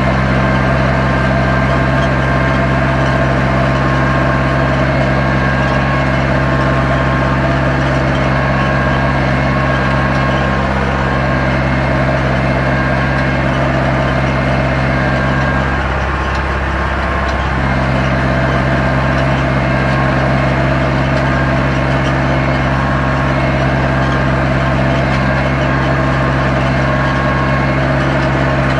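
Zetor 7245 tractor's four-cylinder diesel engine running steadily while ploughing. Its note briefly wavers and drops a little in level about sixteen seconds in.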